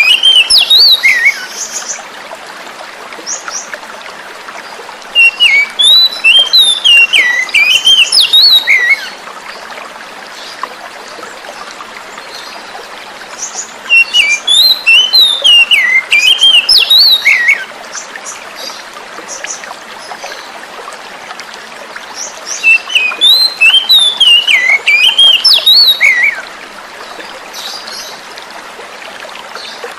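Oriental magpie-robin (kacer) singing in bouts of quick, varied whistled phrases, each lasting about three to four seconds and recurring roughly every nine seconds, over a steady hiss of flowing water.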